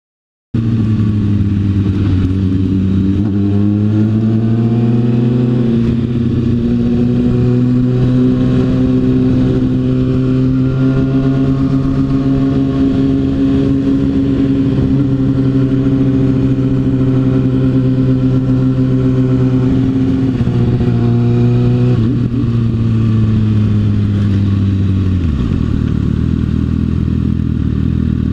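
Sport bike engine pulling away, rising in pitch over a few seconds, then holding a steady cruise. About twenty seconds in it eases off, and the revs drop sharply near the end.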